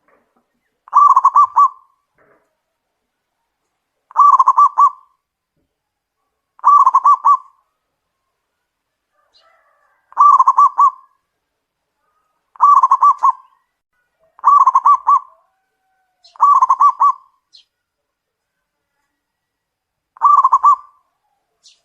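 Zebra dove (perkutut) giving its cooing call. Eight short phrases of quick rippling coos come about every two to three seconds.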